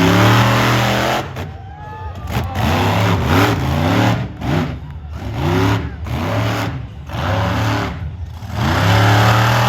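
Monster truck engine revving in quick repeated blips, its pitch rising and falling about once a second, with longer held revs at the start and near the end.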